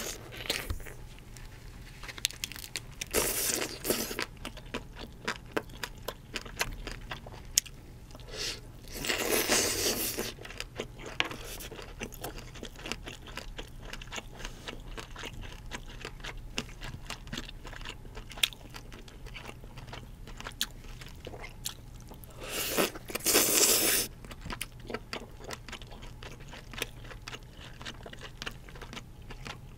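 Close-miked eating of steamed king crab leg meat: wet chewing and lip smacks with many fine mouth clicks. Three louder rushes of noise come a few seconds in, around ten seconds in and about three-quarters through.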